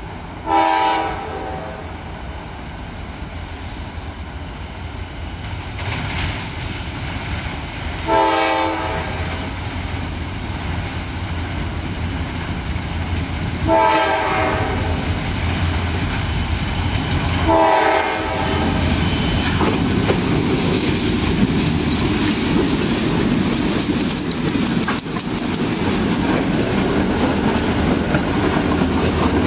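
CSX diesel freight train approaching and sounding its air horn in four separate blasts, each about a second and a half long, over a steady diesel engine hum. From about two-thirds of the way in, the locomotives run close by with a louder engine rumble and wheels clicking over the rail joints.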